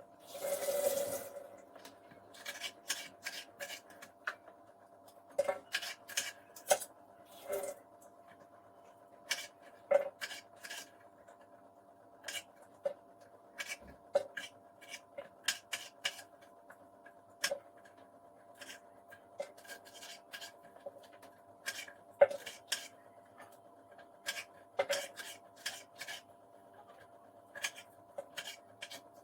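Hands at household cleaning work: irregular short clicks and knocks of objects being picked up and set down, with brief rubbing and scrubbing strokes, one longer rub about a second in. A faint steady hum runs underneath.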